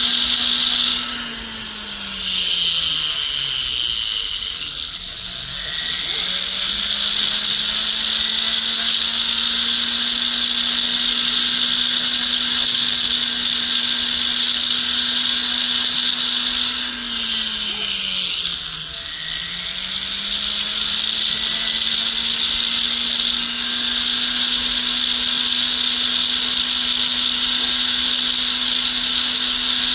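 Handheld rotary tool spinning a silicone polishing wheel against a gold ring, a steady motor hum with a high whine. Twice the motor winds down in pitch and then spins back up to speed.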